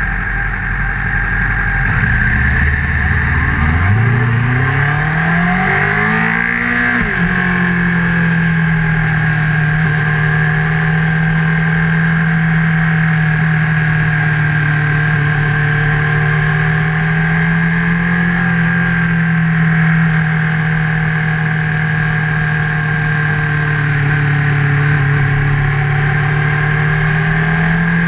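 Honda CBR1000RR's inline-four engine heard from a bike-mounted camera: it revs up with rising pitch for about three seconds, drops suddenly about seven seconds in, then holds a steady pitch while the bike cruises.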